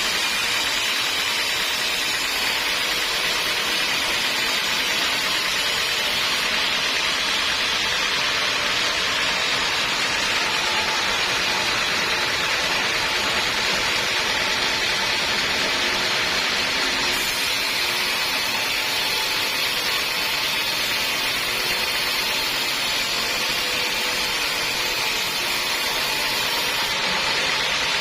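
Sawmill saw running steadily, a loud even noise with no let-up.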